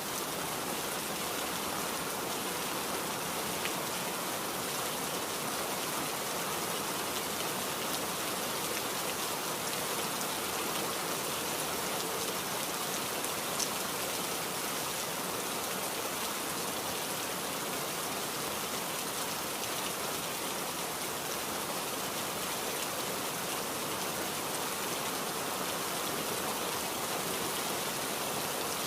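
Steady rain falling, an even dense hiss of many drops with no letting up.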